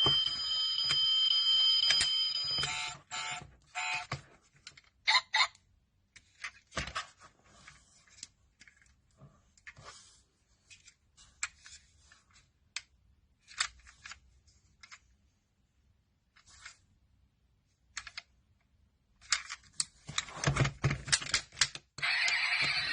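Small sharp clicks and taps from a 1/32 scale die-cast metal Chevrolet Silverado model being handled, scattered with quiet gaps and coming in a denser run near the end. Two steady high tones sound over the first couple of seconds.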